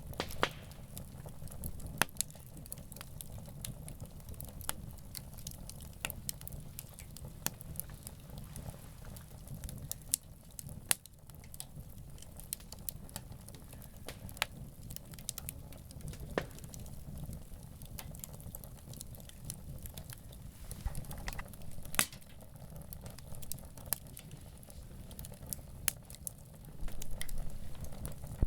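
A wood campfire crackling: irregular sharp pops and snaps, a few of them louder, over a low steady rumble.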